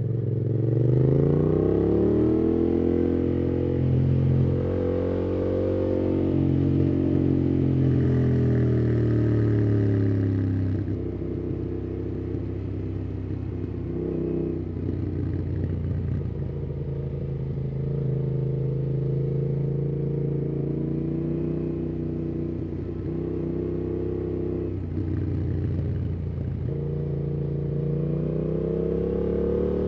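2018 Yamaha MT-07's parallel-twin engine through a MIIV aftermarket exhaust with the dB killer fitted, heard while riding. The revs climb at the start, hold, then fall away as the throttle eases. The engine runs steadily at lower revs through the middle and climbs again near the end.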